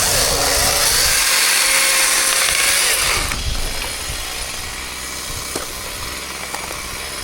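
Chainsaw cutting into wood for about three seconds, then stopping suddenly, followed by a quieter stretch with a few sharp clicks.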